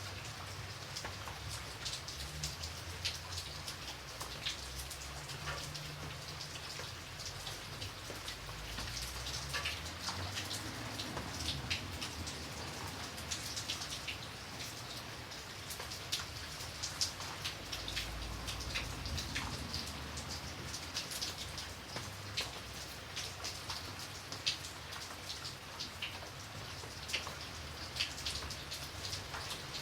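Steady rain with many separate drops pattering on a surface, over a low rumble.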